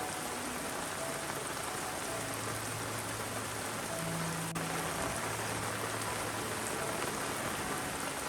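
Steady rain falling, an even hiss, with faint low humming tones coming and going underneath.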